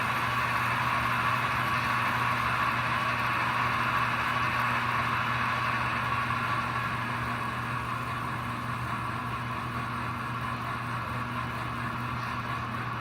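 American Flyer K5 Pacific model locomotive running along the track, a steady motor and wheel whir with a low hum, getting a little quieter a little past halfway.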